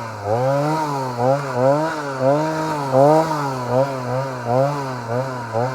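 Stihl MS 290 two-stroke chainsaw running at part throttle, its engine speed dipping and recovering rapidly, about two to three times a second.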